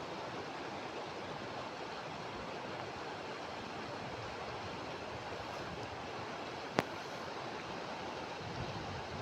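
Steady rushing of running water, with one sharp click about seven seconds in.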